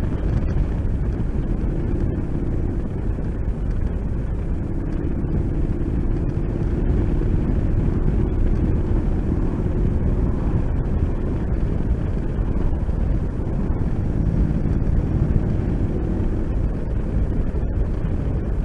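Motorcycle engine running steadily at cruising speed, with rushing wind noise on the microphone.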